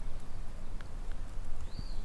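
Low, gusty rumble of wind on the microphone in open country, with a small songbird's short arched call heard faintly near the end.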